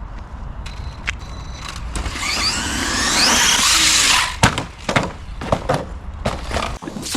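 Losi LMT RC monster truck's electric motor whining up with tyre noise on concrete as it accelerates for about two seconds. This is followed by a series of sharp knocks and clatters as the truck lands and tumbles on the skatepark surface.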